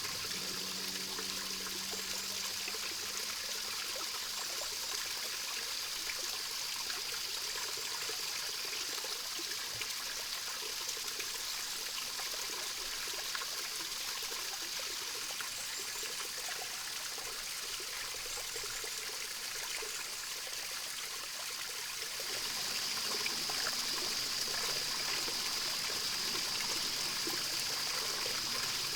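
Water trickling and running steadily in a small mountain stream, getting a little louder about three-quarters of the way through.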